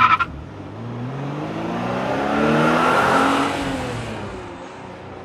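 Car engine revving as it passes by, its note climbing and growing louder to a peak about halfway, then dropping in pitch and fading. A short high squeal cuts off right at the start.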